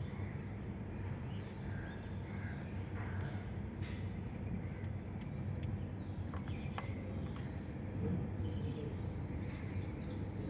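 Faint, short high chirps from a cockatiel over a steady low hum, with several sharp clicks in the middle.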